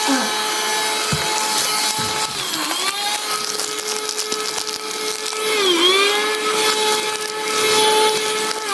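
Henry vacuum cleaner running with a steady motor whine and a rush of air; the pitch dips briefly and recovers twice.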